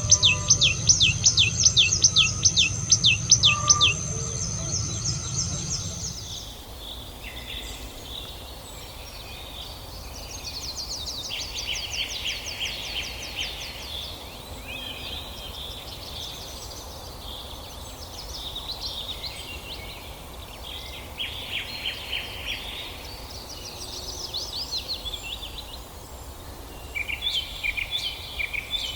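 Songbirds singing and chirping over a steady background hiss. In the first few seconds a fast series of repeated down-slurred notes is heard over a low rumble. After that come varied short chirping phrases from several birds.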